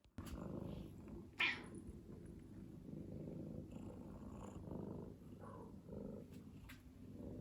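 Short-legged Munchkin cat purring, a steady low rumble, with one brief sharp sound about a second and a half in.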